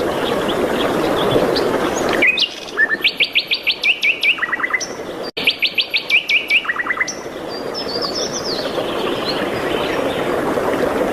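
Songbirds chirping over a steady rushing background. About two seconds in, a loud bird song of rapid repeated high notes followed by a lower run of quick notes comes twice in succession, and the background drops out while it sings.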